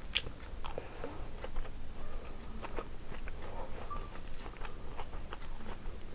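A person chewing and eating close to the microphone: irregular wet mouth clicks and smacks, several a second.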